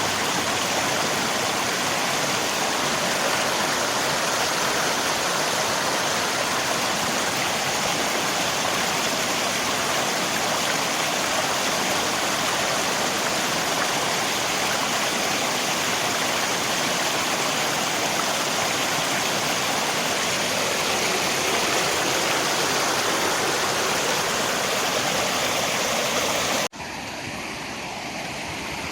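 Steady rushing of river water, an even noise with no break. About 27 seconds in it cuts suddenly to a quieter stretch of flowing water, a splice between recordings.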